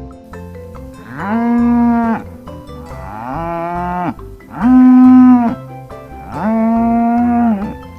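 Buffalo lowing: four long moos, each about a second, pitch sliding up at the start and down at the end. Soft background music plays under them.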